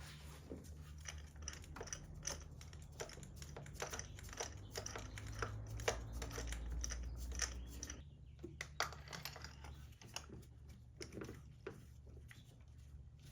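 Irregular light clicks and taps of tools and small parts being handled, over a low steady hum.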